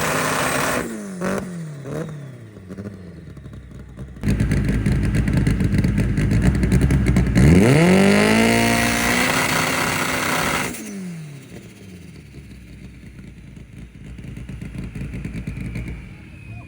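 Car engines revving hard. One engine's note falls away in the first few seconds. Then, about four seconds in, a loud, harsh engine sound starts suddenly, climbs in pitch as it revs up, and cuts off near eleven seconds with its pitch falling away.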